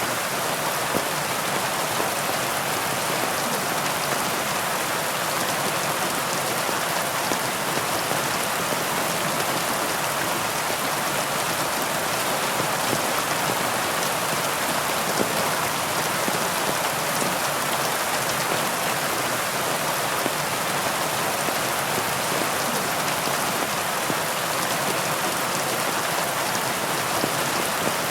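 Heavy rain falling steadily: an even, unbroken hiss of many drops, with little deep rumble.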